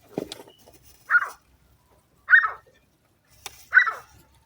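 Three short, loud animal calls about a second and a half apart, with a weaker burst of noise at the start.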